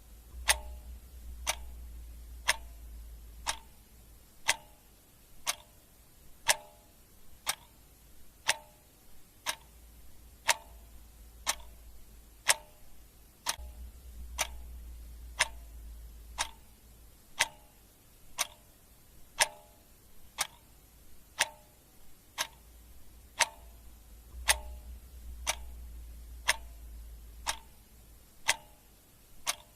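Clock ticking steadily, one tick a second. A low rumble comes and goes underneath a few times.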